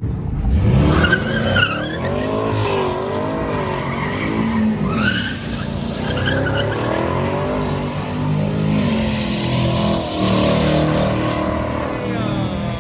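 A car's engine revving hard, its pitch swinging up and down over and over, while its tyres squeal and skid on the pavement, as when spinning the wheels in donuts.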